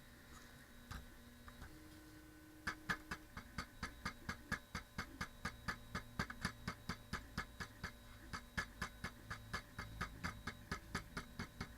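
Quick, even tapping on an FPV quadcopter's frame, about four taps a second, starting a few seconds in. This is a tap test, listening for a loose part that rattles.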